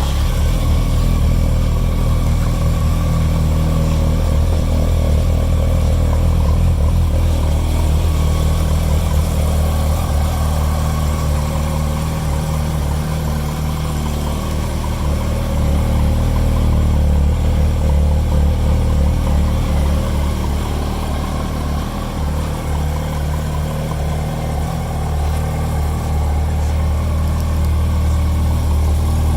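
2008 Yamaha R1's inline-four engine idling steadily, with small rises and dips in level.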